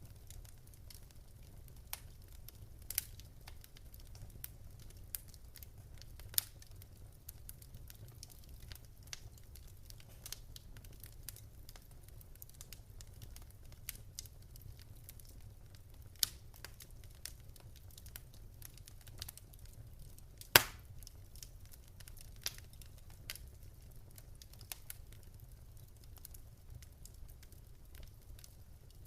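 Wood fire in a fireplace crackling, with irregular scattered pops over a low steady rumble. One pop about two-thirds of the way through is much louder than the rest.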